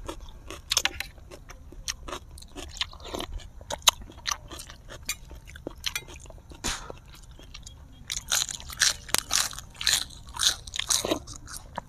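Close-miked eating: biting into crunchy food and chewing, in irregular crunches that come thickest from about eight to eleven seconds in.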